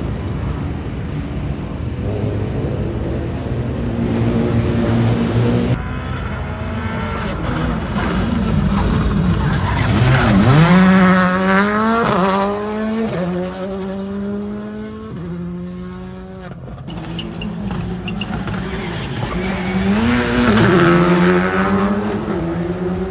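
Rally car engines accelerating hard, the pitch climbing and dropping back at each gear change, several times over. The sound changes abruptly a few times, as from one car to another.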